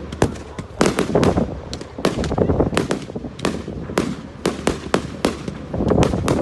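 Fireworks going off in quick, uneven succession: many sharp bangs and crackles, several a second, some with a low rumble trailing after.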